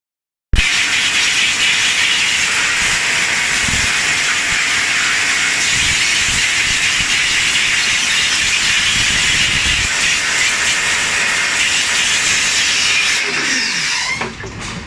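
A steady, loud hiss of water spraying hard, starting abruptly and easing off near the end, where a few clicks and knocks come in.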